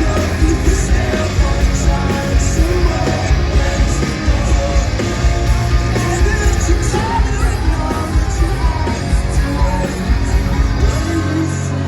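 Live rock band playing loud with a fast drum beat, distorted guitars and shouted, sung vocals, picked up by a phone in the crowd. Near the end the drums stop and a low held chord rings on.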